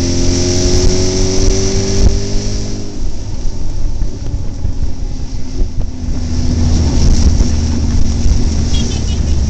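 Trail motorcycle engine running under way, its pitch rising over the first few seconds as it accelerates, then easing and holding steady from about six seconds in, under a heavy low rumble.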